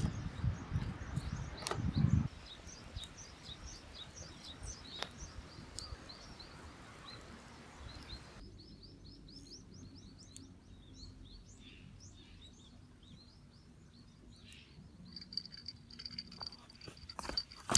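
Outdoor birdsong: small birds chirping in short, repeated high calls over a quiet background hiss, after a low rumbling noise in the first two seconds. A steady high whine sets in near the end.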